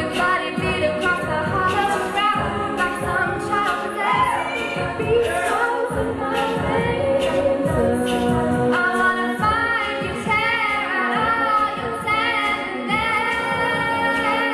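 Women's a cappella group singing a pop song, with a lead voice over sustained sung harmonies and vocal percussion keeping a steady beat.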